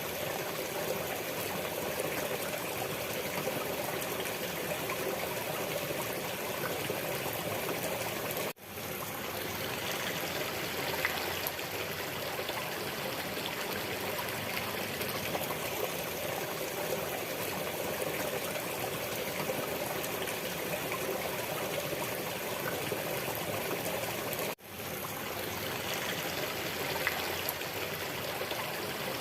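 Water running steadily in a stream, a continuous trickling rush. It drops out for an instant twice, about 8.5 and 24.5 seconds in, and fades back up each time.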